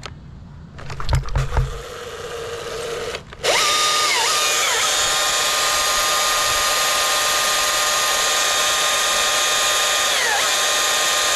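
A battery chainsaw makes a short false start, then spins up about three seconds in and runs at full speed with a steady high whine. The pitch dips briefly twice as the trigger is eased. It comes just after the saw had been turning on without getting up to power.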